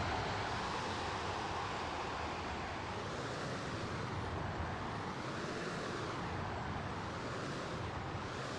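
Radio-controlled model jet flying, a steady jet rush with a slowly sweeping, hollow wavering tone as it moves about the sky.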